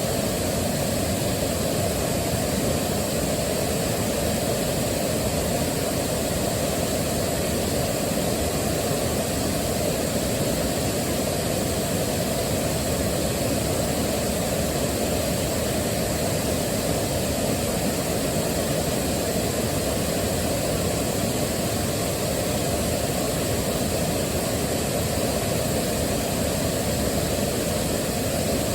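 Waterfall: a steady, deep rush of falling water that does not change.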